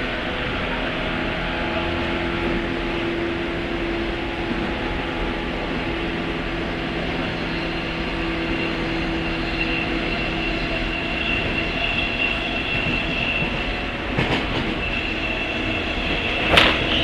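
Running sound heard inside a JR West 103 series motor car (MoHa 102) with MT55 traction motors: a steady hum from the motors and gears over wheel-on-rail rumble. A couple of sharp knocks come near the end.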